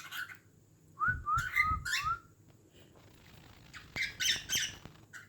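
Cockatiel whistling a short run of gliding notes about a second in, then a burst of harsher chirps near the end.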